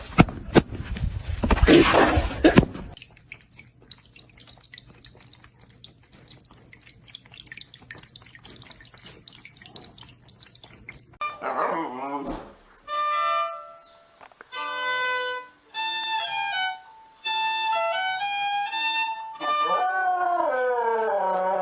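A dog howling: after about eleven seconds of only rustling and faint background hum, it lets out a run of long drawn-out notes at changing pitches, the first and last sliding downward. Loud rustling noise fills the first few seconds.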